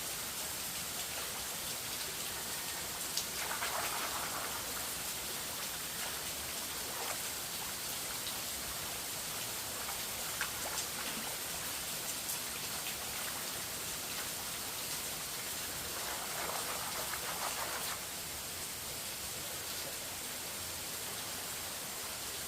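A steady hiss with two bursts of rustling, one about three seconds in and one near sixteen seconds in, and a few faint ticks.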